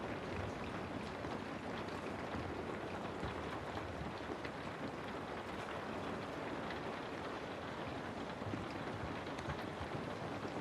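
Steady rain falling on a house, a dense patter of drops over an even hiss.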